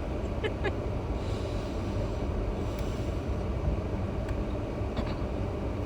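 Steady low rumble of road and tyre noise inside a moving car's cabin, with a few faint ticks.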